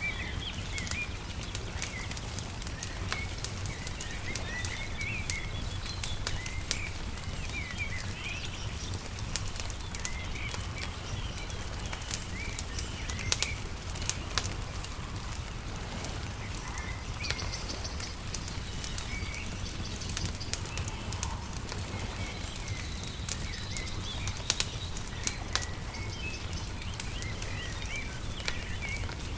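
A wood fire crackling with scattered sharp pops, a few louder ones in the middle and near the end. Small birds chirp throughout, over a steady low rumble.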